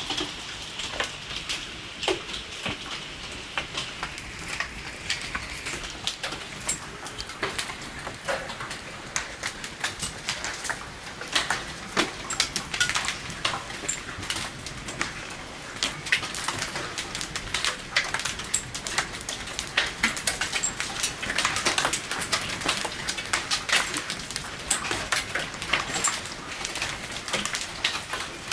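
Egg-sized hailstones pelting down in a heavy hailstorm: a steady hiss of falling ice broken by many sharp, irregular impacts, several a second.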